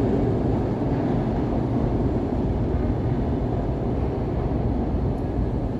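SEPTA Broad Street Line subway train moving through an underground station: a steady, low rumble of wheels and motors.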